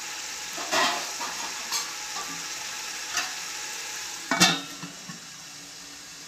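Chicken frying and sizzling in a large aluminium pot, with a metal spoon clattering against the pot a few times. About four and a half seconds in, a steel lid is set on with a clang, and the sizzling is quieter after it.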